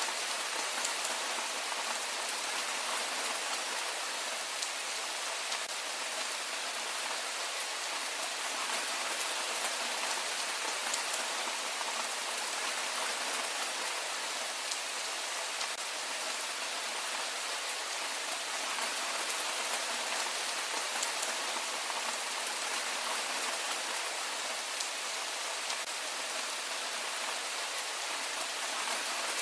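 Heavy rain falling steadily: a dense, even hiss of many raindrops, with little low rumble.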